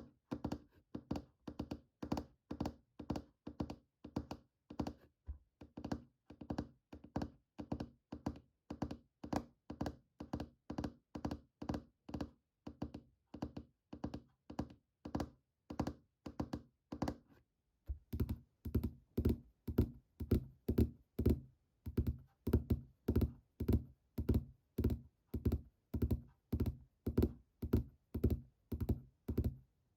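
Fingernails or fingertips tapping steadily on a hard object, about three taps a second. A little past halfway the taps turn deeper and louder, as on a different object or surface.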